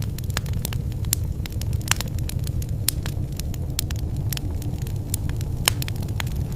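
Wood fire burning in a fireplace: a steady low rumble with irregular sharp crackles and pops, two of them louder, about two seconds in and near the end.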